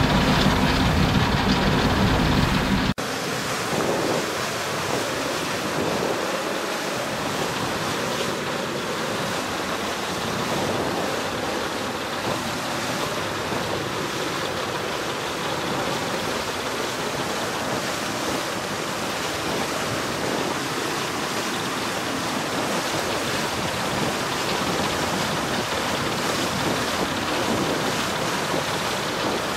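Steady rushing water noise, with wind on the microphone. A louder low rumble in the first three seconds cuts off abruptly.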